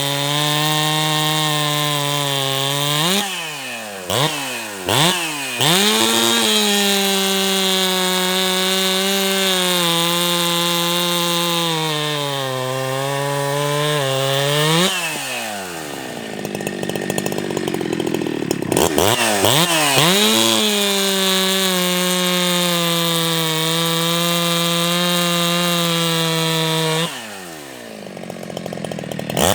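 Ported Jonsered 2165 two-stroke chainsaw cutting wood at full throttle, its pitch sagging slightly under load in the cut. Several times it drops off the throttle and revs back up: a few quick blips a few seconds in, a longer let-off about halfway through, and another drop near the end.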